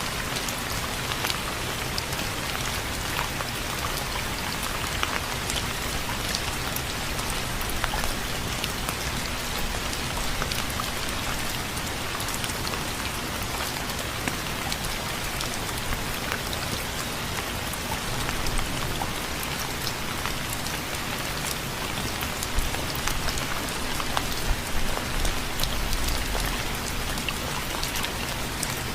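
Steady rain falling on a surface, a dense even hiss with many individual drop ticks and a few louder drops spattering near the end.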